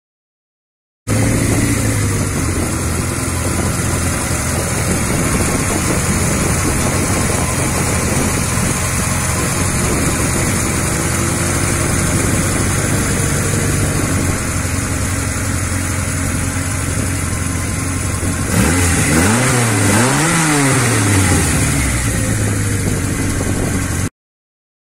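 Lada 2101 rally car's four-cylinder engine with twin carburettors idling steadily, then revved twice near the end, the pitch rising and falling each time.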